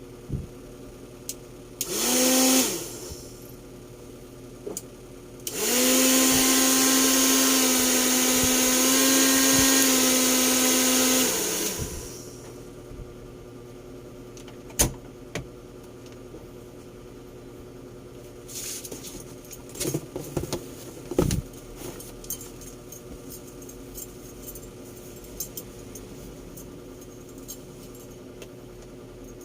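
Handheld hair dryer being tested: switched on for a moment about two seconds in, then run for about six seconds with a steady motor hum and rushing air before it is switched off. Scattered clicks and knocks of handling follow.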